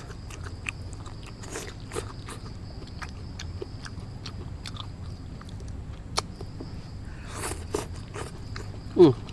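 Close-up chewing of cooked young tree twigs and leaves: a scatter of small, crisp crunches. Near the end comes one short, loud vocal sound.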